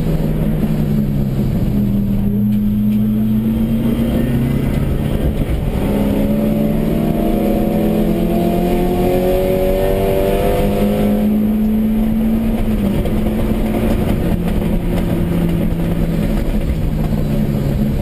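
1992 Nissan Sentra SE-R's 2.0-litre SR20DE four-cylinder engine, heard from inside the cabin at racing speed over steady road and tyre noise. Its pitch rises under hard acceleration through the middle, then falls as the throttle comes off near the end.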